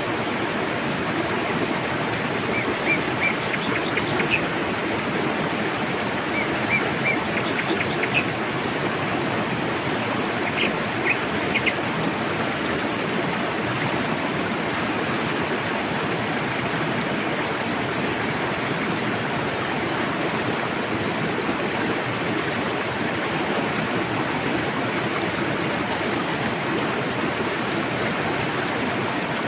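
A river rushing steadily over rocks. A small bird chirps in three short runs of quick high notes during the first twelve seconds.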